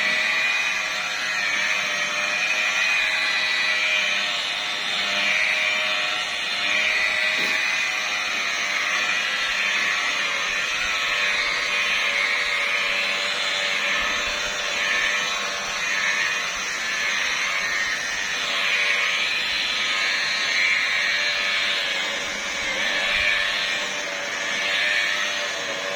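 Handheld electric car-paint polishing machine running steadily on the paintwork, its pitch wavering a little as it is worked across the surface.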